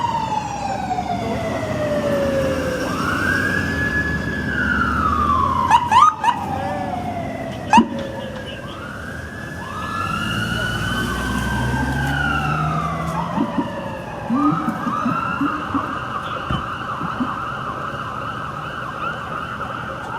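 Emergency vehicle siren sounding a slow wail that sweeps down and back up every few seconds, then switching about two-thirds of the way in to a fast, rapidly warbling yelp. Two sharp knocks cut through it, at about 6 and 8 seconds in.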